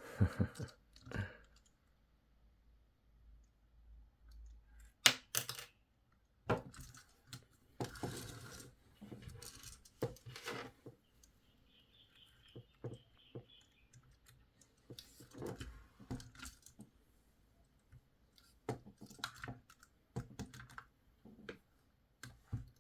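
Plastic clicks and rattles from a Hailfire Droid action figure being handled and its missile launcher worked by hand. The sounds come irregularly, with the sharpest snap about five seconds in.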